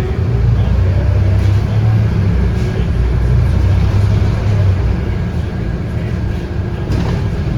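Scania K230UB bus's 8.9-litre five-cylinder diesel engine pulling under load, heard from inside the bus as a steady low drone, easing slightly about five seconds in.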